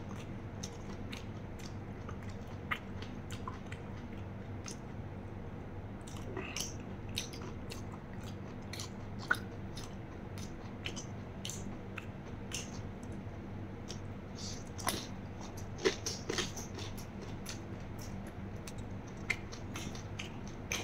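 Close-miked chewing of raw beef koi with crisp green vegetable pieces: scattered crunches and wet mouth clicks over a faint steady hum.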